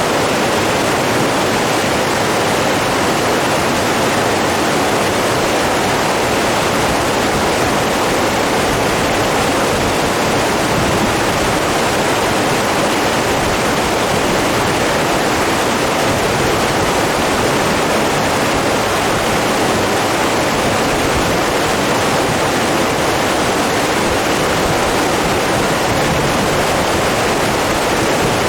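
Running water rushing steadily, an even, unbroken noise that neither rises nor falls.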